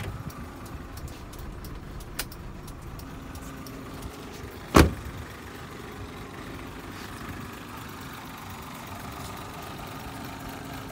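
Daewoo Matiz Joy's three-cylinder engine idling steadily, with one sharp knock about five seconds in and a fainter click about two seconds in.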